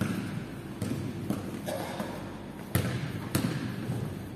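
A basketball being dribbled on a hard indoor court: about six irregular bounces, each ringing briefly in the large gym hall. The loudest come a little under three seconds in.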